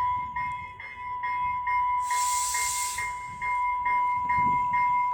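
A railroad warning bell ringing steadily, about two and a half strikes a second over a constant tone. About two seconds in, a one-second burst of air hiss from the train cuts in.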